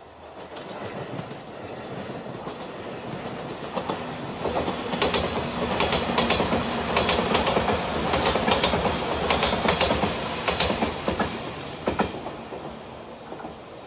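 JR Shikoku electric limited express train passing at speed. It builds up, then its wheels clatter over the rail joints, loudest in the middle, and the sound fades near the end as the train draws away.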